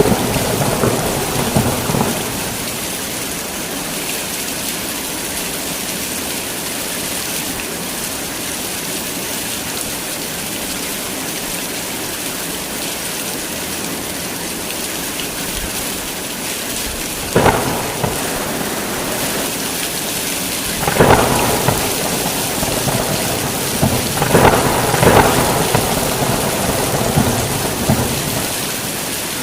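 Heavy rain falling steadily through a thunderstorm, with claps of thunder: one fading at the start, a sharp crack about 17 seconds in, then longer rumbling peals near the end.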